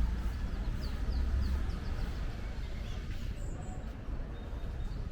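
Small birds chirping: a quick run of short falling chirps about a second in and a brief high note later, over a steady low rumble of street ambience.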